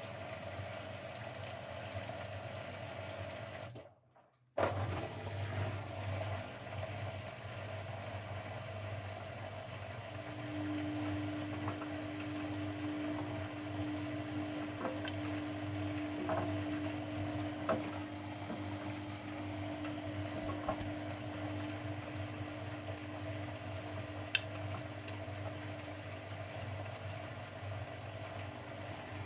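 Grundig front-loading washing machine running a wash cycle: a steady motor hum with faint water sloshing in the drum. A steady whine comes in about ten seconds in and fades out after about sixteen seconds. All sound drops out for about half a second around four seconds in.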